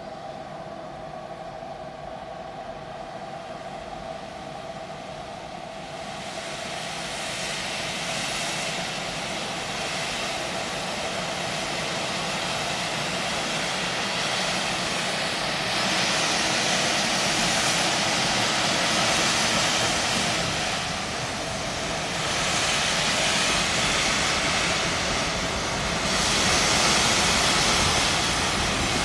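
Steam-hauled train approaching, its noise growing steadily louder, with surges of rushing sound in the second half.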